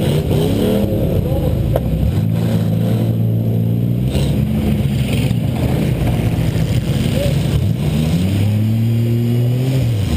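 2000 Buick LeSabre's 3.8-litre V6 engine heard from inside the car, revving hard with its pitch rising and falling over and over as the car drives and manoeuvres.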